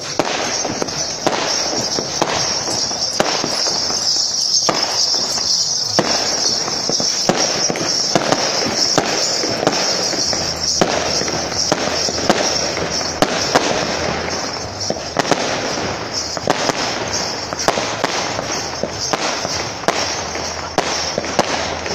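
Fireworks going off: a dense, irregular run of pops and bangs over a steady crackling hiss.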